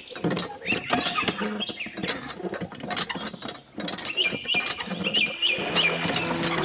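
Small mechanism clicking and ratcheting in quick, irregular clicks, with birds chirping. Music comes in near the end.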